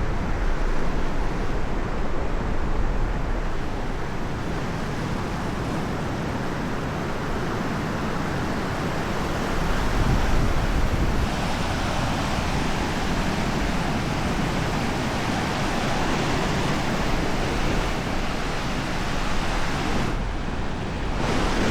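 Sea waves washing onto a sandy beach: a steady surf hiss that swells a little about halfway through.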